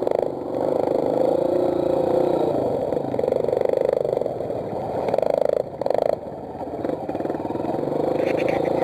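Mini motocross bike engine running with a rapid buzz, its engine speed rising and falling several times.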